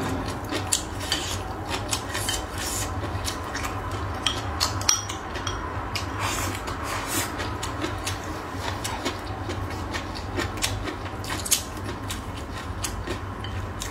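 Close-miked chewing of crisp stir-fried bamboo shoots and pork, heard as a dense run of irregular crunches and clicks over a low steady hum.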